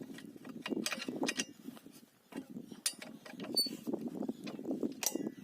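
Irregular metal clicks and knocks of hand work tightening a bolted fitting, over a low rustling of handling.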